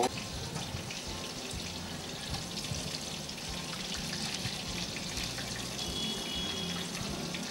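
Breaded chicken lollipops deep-frying in hot oil: a steady sizzle with fine crackling.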